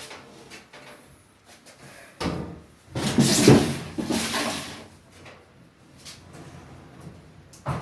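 Clunks, knocks and scraping of a washing machine's lid being handled and set back in place, loudest in a stretch of clattering from about two to five seconds in.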